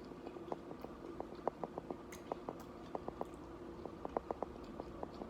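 Close-up mouth sounds of someone chewing nachos: irregular crisp clicks and small crunches, several a second, over a faint steady hum.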